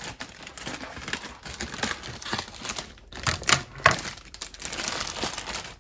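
Plastic wrapping crinkling and rustling in irregular bursts as it is handled.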